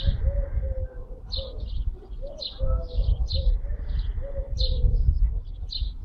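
Birds calling: short high chirps repeating every half second or so, with lower calls that rise and fall in pitch, over a low rumble.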